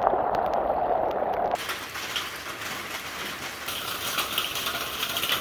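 Steady rain falling, with scattered drop ticks. About a second and a half in the sound changes abruptly from a duller patter to a brighter, fuller hiss of rain.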